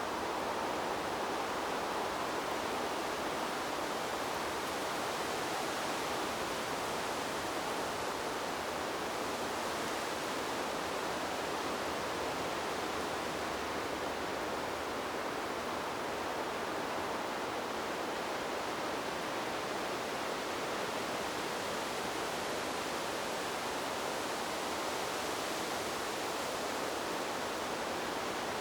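A steady, even rush of wind blowing through trees, with no distinct gusts or other sounds.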